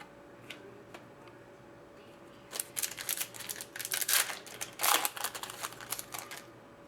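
Trading-card pack wrapper crinkling and cards rustling as a hockey card pack is handled and opened: rapid crackling starting about two and a half seconds in and lasting about four seconds.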